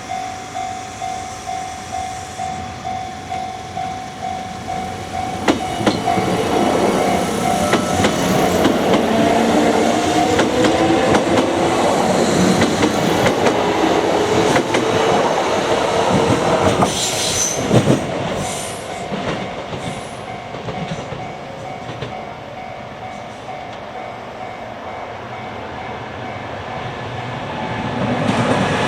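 A level-crossing alarm rings in even pulses, about two a second. From about five seconds in, a Kintetsu Minami Osaka Line train runs through the crossing, loud for some twelve seconds before easing off.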